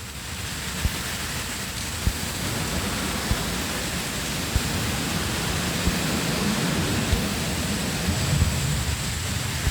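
Steady hiss from an open audio line, such as a microphone or amplifier, with no music playing. Faint soft low knocks come roughly once a second.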